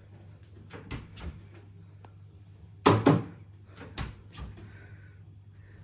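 A series of clunks and knocks, with a loud double bang about three seconds in, like a door or cupboard being handled and shut, over a steady low hum.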